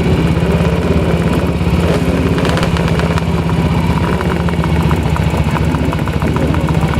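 A vehicle engine idling steadily with an even, rapid firing pulse.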